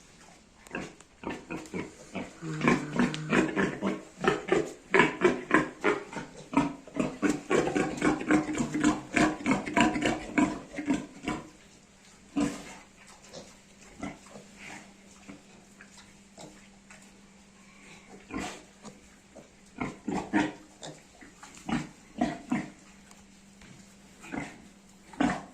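Piglet grunting in a fast, excited run of short grunts for several seconds, then grunting only now and then.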